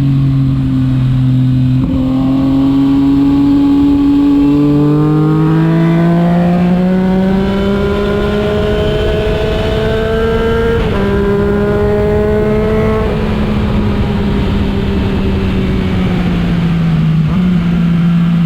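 Motorcycle engine running under load as the bike rides along. Its pitch climbs steadily and drops abruptly at gear changes, about eleven and thirteen seconds in, over a steady rough rushing noise.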